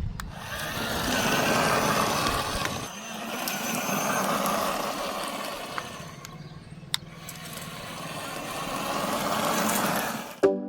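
A motor running, its whirring noise swelling and fading three times, with a couple of sharp clicks partway through. Music starts right at the end.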